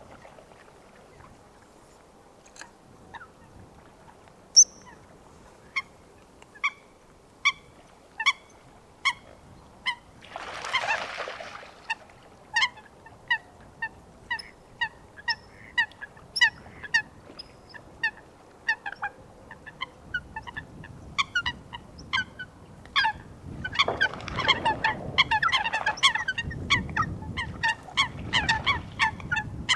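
Eurasian coots giving short, sharp, explosive calls, about one a second at first, then faster and overlapping as more birds join in. A brief burst of noise comes partway through, and more noise runs under the thickest calling near the end.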